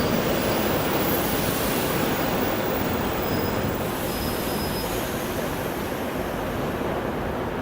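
2M62U two-section diesel locomotive moving slowly along the track, its diesel engines running steadily under the noise of wheels on rail, with a few faint high wheel squeals about halfway through. The sound eases slightly toward the end.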